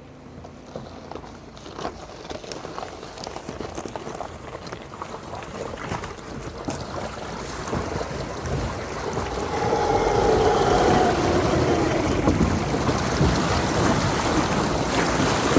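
Rain falling, at first as scattered separate drops, then building steadily into a heavy, even downpour that is loudest from about ten seconds in.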